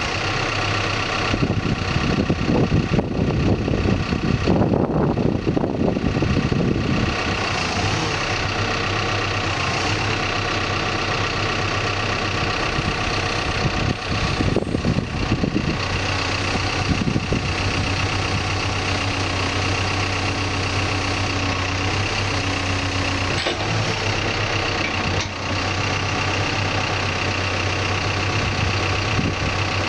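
Backhoe's diesel engine running steadily, growing louder for several seconds starting about a second and a half in, and again around the middle. This fits the engine taking load as the hydraulics are cycled during a startup check.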